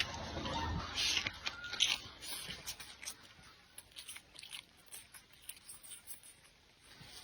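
Close-miked eating sounds: a person chewing and biting food with small crunches and mouth clicks, busiest in the first two seconds and fainter after.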